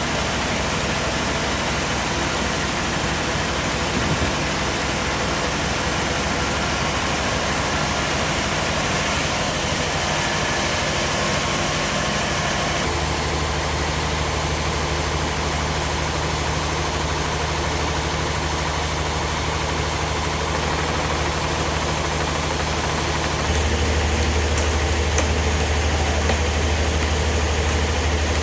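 Heavy machinery engine running steadily, its low note growing louder about halfway through and again, more strongly, near the end.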